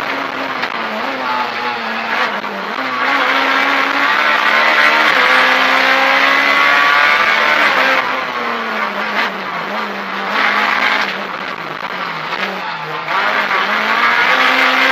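Rally car's engine heard from inside the cockpit under hard driving, revs climbing and breaking off at gear changes. About halfway through the revs drop and stay lower and uneven for several seconds, as the car lifts off and shifts down, then the engine pulls hard again near the end.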